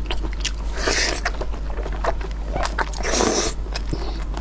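Close-miked chewing of soft blood sausage: scattered wet mouth clicks, with two longer hissy mouth noises about a second in and about three seconds in, over a steady low hum.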